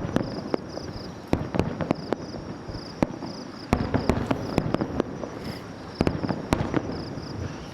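Fireworks display: aerial shells bursting in a rapid series of sharp bangs, coming in clusters over a continuous crackle and rumble, easing off near the end. An insect chirps in short repeated pulses behind them.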